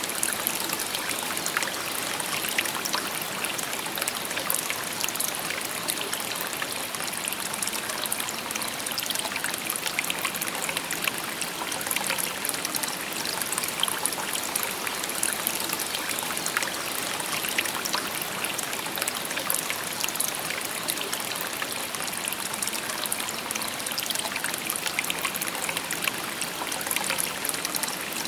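A shallow river babbling over stones: steady rushing water with many small splashes and trickles, bright and hissy.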